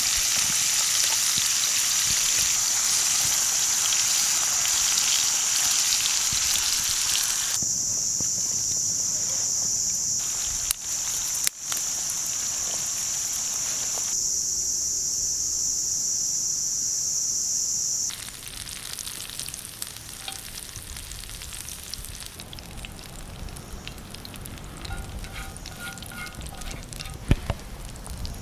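Food sizzling and frying in a pan over a camp stove or fire, a steady high hiss broken by a few abrupt changes. About two-thirds of the way through the sizzle stops, leaving a much quieter outdoor background with faint chirps.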